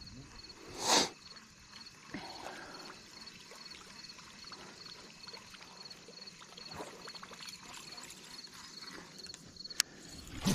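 Faint, regular pulsing chirp of an insect running steadily, with a short rushing noise about a second in and a sharp click near the end.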